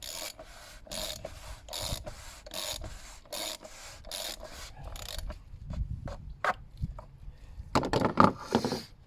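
Hand ratchet being worked in short, repeated strokes, its pawl rasping on each back-stroke, to nip up the oil filter housing cap on an Audi 3.0 TDI V6 engine, about eight strokes in the first five seconds. A louder rattling clatter of tools comes near the end.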